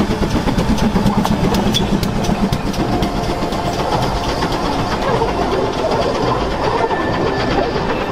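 A heritage railway train running close by on the track, its wheels clicking over the rail joints for the first few seconds.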